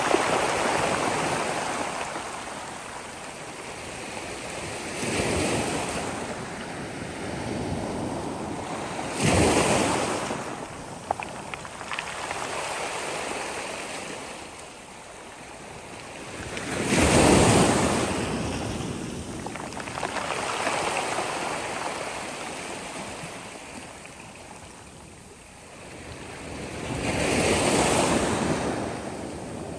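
Sea waves breaking on a shore: surges of surf noise swell and fade about five times, each wave every few seconds, the loudest about 17 seconds in.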